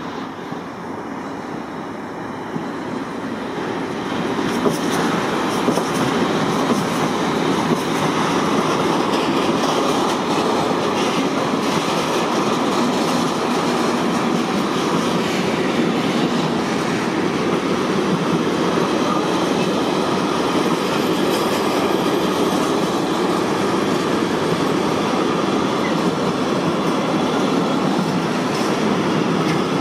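Container freight train behind two BLS Cargo Vectron electric locomotives passing close by. The noise builds over the first few seconds as the locomotives draw near, then holds steady as the wagons' wheels run over the rails with scattered clicks.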